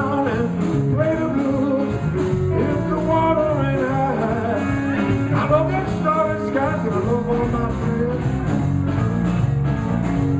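Live blues band playing an instrumental passage: drums keeping a steady beat under bass, with a lead line of bending, sliding notes on top.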